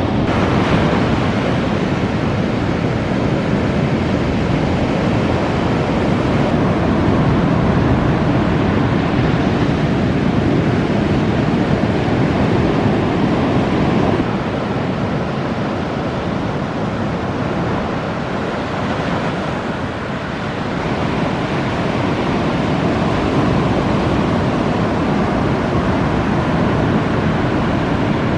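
Big ocean surf breaking, a steady dense rushing noise of waves, with wind on the microphone. The level drops a little for several seconds about halfway through.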